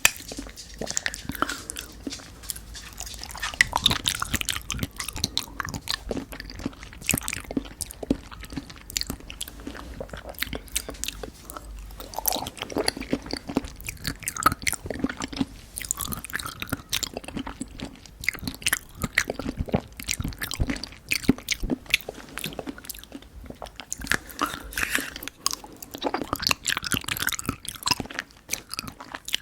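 Close-miked chewing of pudding: soft, wet mouth sounds with many small irregular clicks, continuing throughout.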